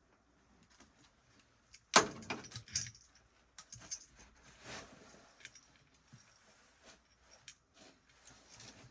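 Small metal objects clattering and jingling: a sharp clatter about two seconds in, a quick run of rattles, then scattered clicks and knocks.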